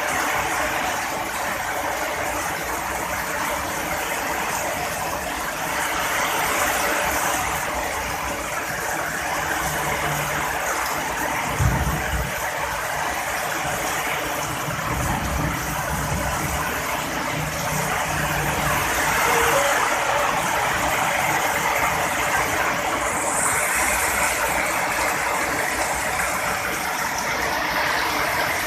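Heavy rain pouring steadily. A little under halfway through, a sudden low clap of thunder, followed by several seconds of low rumbling.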